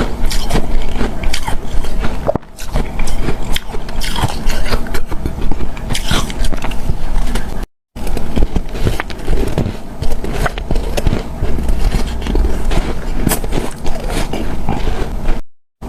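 Close-miked biting and chewing of snow-like refrozen ice powder: dense, irregular soft squeaky crunches. It breaks off briefly about halfway through and again near the end.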